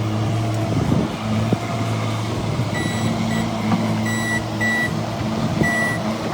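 Skid-steer loader's engine running steadily, with its reverse alarm beeping several times in the second half.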